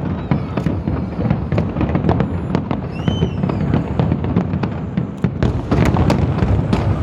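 Fireworks display: a rapid, unbroken string of booms and sharp cracks over a steady low rumble, with a short rising-and-falling whistle about three seconds in.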